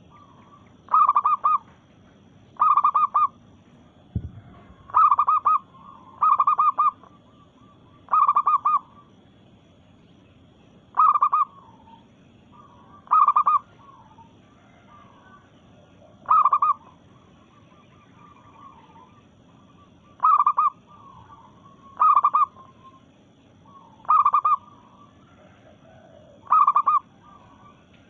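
A female zebra dove (local perkutut) repeating short, rapidly pulsed coos, about a dozen of them, one every two seconds or so. There is a single soft knock about four seconds in.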